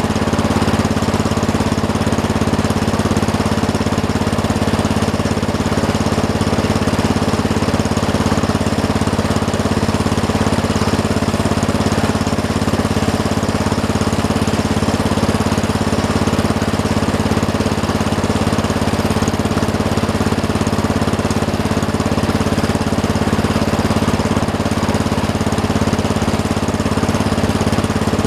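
Engine of a small snow-plowing machine running steadily at an even speed, with no change in pitch or loudness.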